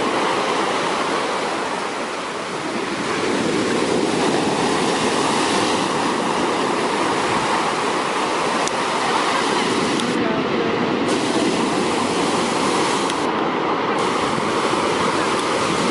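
Heavy surf: large waves breaking and washing up the beach in a continuous rushing noise, easing briefly about two seconds in.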